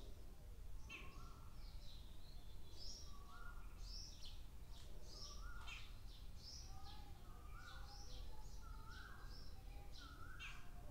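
Faint birds chirping, short high calls repeating about once or twice a second, over a low steady hum.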